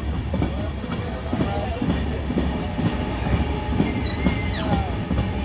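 Passenger express train rolling slowly through a station, heard from its open coach door: a steady low rumble with irregular wheel clatter, and a brief high-pitched tone a little before the end.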